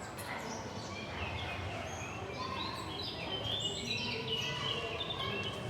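Many small birds chirping and twittering together, short high notes overlapping one another, growing busier about two seconds in.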